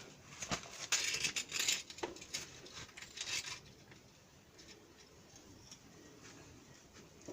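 Hand tools working on a power tiller's wheel to take it off: a busy run of metallic clicks, taps and scraping for the first three and a half seconds, then only occasional faint ticks.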